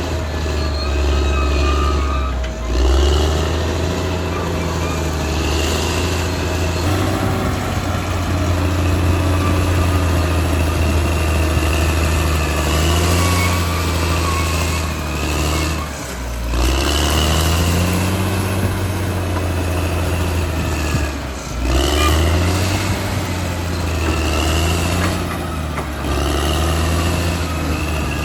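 Caterpillar D6R XL bulldozer's diesel engine running under load, its engine speed dipping and picking back up a few times, with intermittent high-pitched squeals over the engine.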